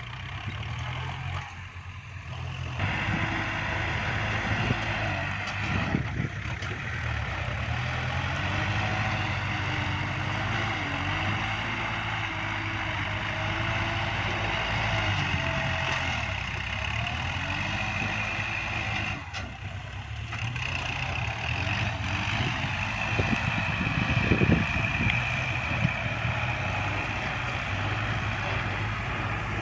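Kubota tractor's diesel engine running steadily under load while pushing soil, with a whine from the drivetrain above the engine note. The engine gets louder about three seconds in.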